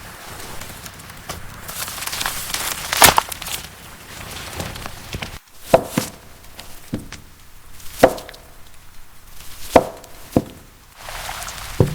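Knife chopping on a cutting board, about seven sharp strikes at uneven spacing, one every second or two.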